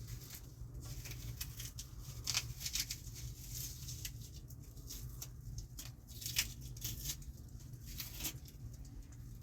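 Irregular patter of small clicks and rustles, a few louder ticks among them, over a steady low rumble.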